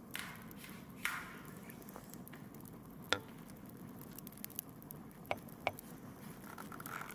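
Campfire crackling: scattered sharp pops and snaps, a few louder ones about a second and three seconds in, over a faint steady hiss.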